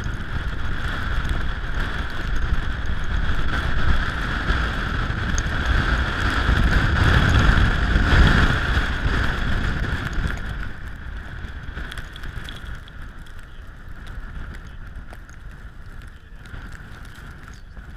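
Blizzard wind gusting over the microphone: a heavy low buffeting rumble under a steady higher hiss, strongest about eight seconds in and easing off after about ten seconds.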